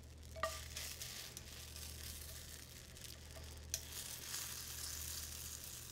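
Bread croutons sizzling in a very hot pan of clarified butter, a steady hiss, with a few light clicks.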